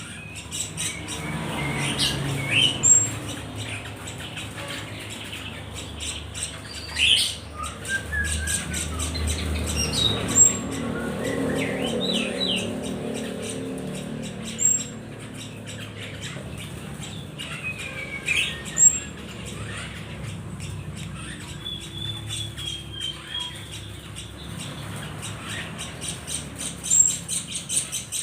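Small songbirds squawking and chirping in short, scattered calls, many of them sharp upward sweeps, with a few louder single calls standing out.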